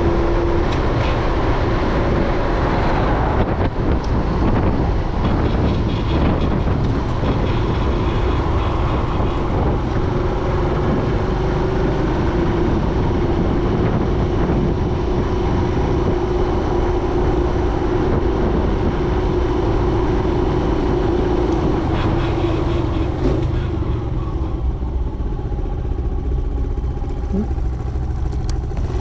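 Kawasaki KSR110's small single-cylinder four-stroke engine running as the bike is ridden, with wind noise. Near the end the engine note falls and the wind noise drops as the bike slows.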